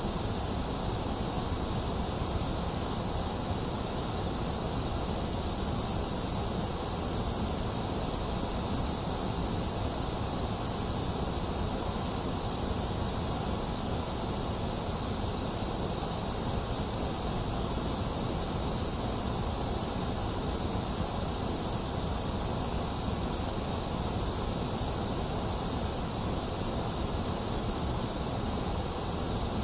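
Box fan running steadily together with falling rain, an even, unbroken hiss with no thunder.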